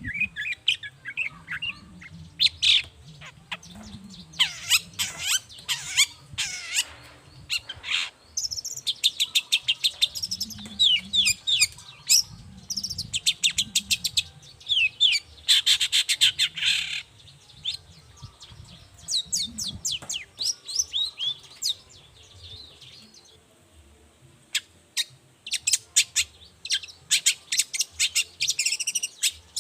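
Long-tailed shrike (cendet) singing: fast runs of sharp chirps and trills mixed with harsh rasping notes, the loudest rasp about halfway through, with a short quieter lull about three-quarters of the way in.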